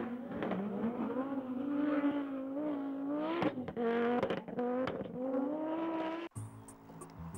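Car engine accelerating hard and changing gear: its note climbs, breaks and climbs again several times, with a brief tyre squeal. About six seconds in it cuts off suddenly to a quieter, steady low sound with regular ticks.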